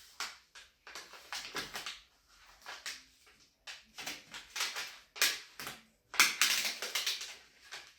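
Peel-and-stick vinyl paper rustling and crinkling as it is handled, in irregular crackly bursts, loudest about six seconds in.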